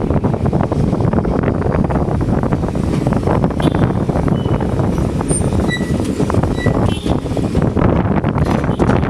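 Passenger train running along the track, a steady rumble of wheels on rail with fine clicking, and wind buffeting the microphone. A few faint short high pips sound around the middle.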